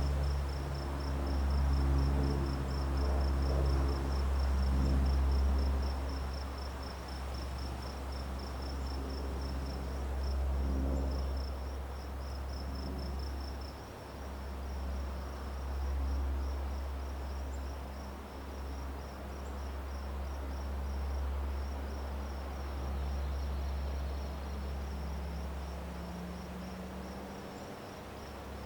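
A cricket chirping in a steady run of rapid, high pulses, over a low rumble and a droning low hum that fades after about twelve seconds; a faint low tone slowly rises in pitch near the end.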